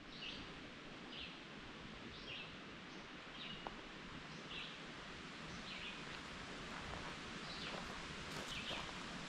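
A bird calling over and over, a short high note that drops slightly in pitch, about once a second, over a steady outdoor rustle of leaves.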